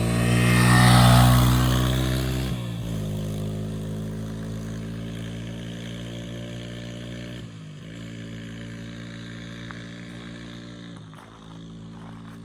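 A motorcycle engine running, loudest about a second in as it passes close, then fading as it rides away. The engine note breaks briefly three times.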